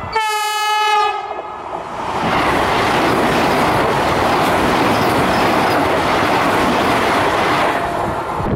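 Indian Railways train's horn blown once for about a second, then the train passes at high speed with a loud, steady rush of wheels on the rails.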